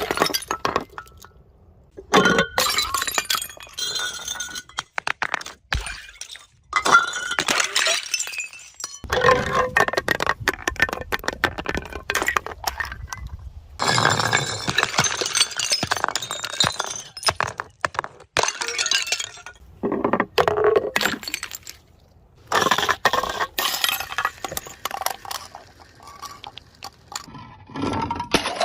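Glass bottles shattering again and again, in about eight separate crashes of breaking and clinking glass, each followed by a short pause.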